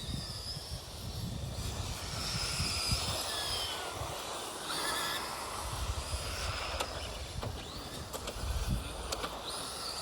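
Electric motors and gears of Tamiya RC race trucks whining, several at once, the pitch sliding up and down as they speed up and slow. A few sharp clicks come in the second half, over an uneven low rumble.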